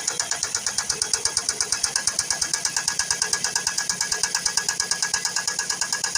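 Ford C-Max 1.8 petrol engine running with a rapid, regular knocking clatter. The owner suspects a piston or valve, possibly a hydraulic valve lifter.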